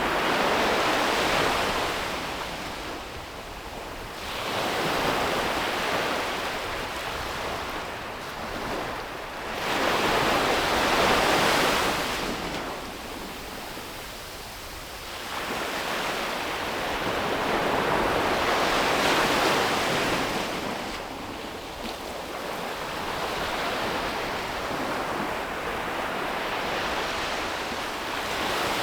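Sea waves breaking and washing up a beach, each surge swelling and fading over a few seconds, about five in all, with wind on the microphone.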